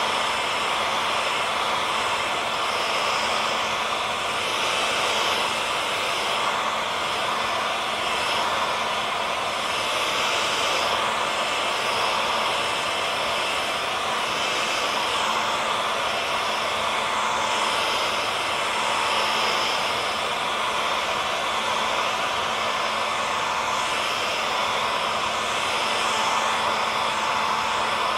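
Hair dryer running steadily: an even rush of blown air with a constant motor whine through it.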